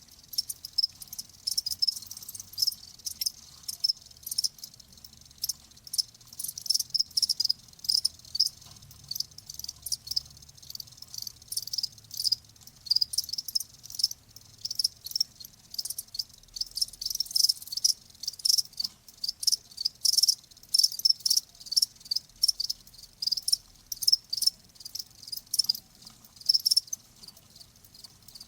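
Crickets chirping: many short, high chirps in quick irregular pulses, overlapping from several insects.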